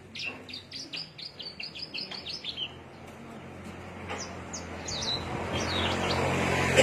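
A songbird singing a fast run of short, high, downward-sweeping chirps for about three seconds, then scattered single notes. Behind them a rushing noise swells steadily and is loudest near the end.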